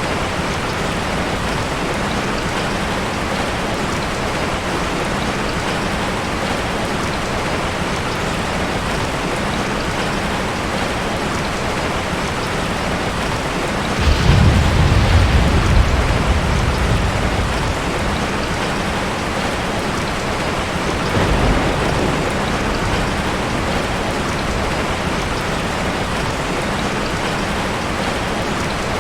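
Steady heavy rainfall. A deep rumble of thunder swells in about halfway through and dies away over a few seconds, with a fainter rumble a few seconds later.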